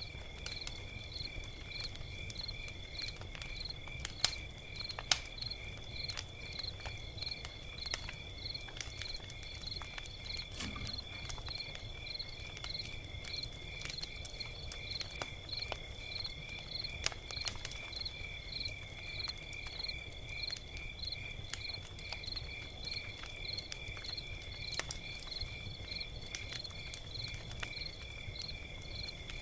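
Log fire crackling in scattered sharp pops, the loudest about four and five seconds in and again past the middle, over a steady high-pitched chirping that pulses evenly, about two times a second.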